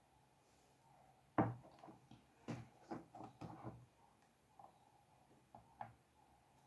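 A quick run of light knocks and clatters starting about a second and a half in and lasting a couple of seconds, the first one the loudest, then one more single knock near the end.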